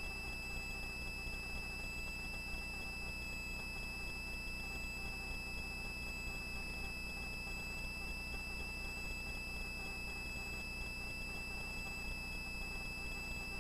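Faint, steady high-pitched whine over a low hum from a helicopter in flight, heard through the cabin intercom recording with its noise filtering.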